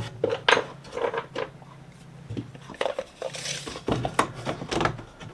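Light clatter of wooden boards and tools being handled, a scatter of small knocks and clicks over a faint steady hum, with a brief hiss about three and a half seconds in. No saw is running.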